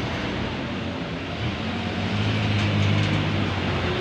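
Heavy coal trucks' diesel engines running as the trucks pass in a line. The low engine hum swells louder about halfway through as a truck comes close.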